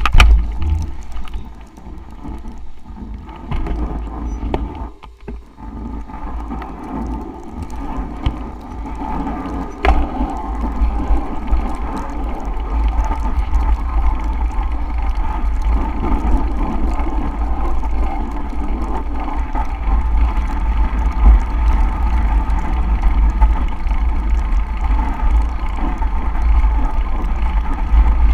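Wind buffeting the microphone with a steady rushing noise during a bicycle ride in a snowstorm. It grows louder and steadier about ten seconds in.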